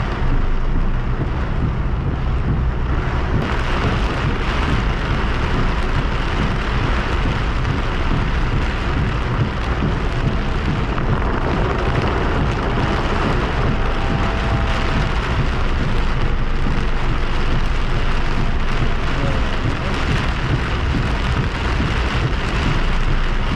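Heavy rain pelting the roof and windshield of a moving car, heard from inside the cabin as a steady, dense noise with a low rumble underneath.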